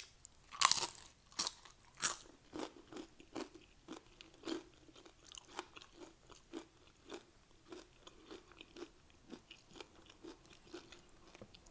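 Crunching and chewing of Doritos nacho chips. There are a few loud bites in the first two seconds, then steady chewing at about two to three chews a second that grows quieter.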